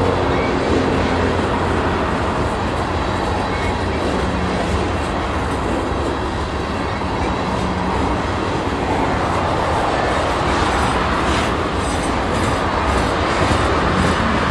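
Loaded coal train's hopper cars rolling past close by: a steady, loud rumble of steel wheels on the rails.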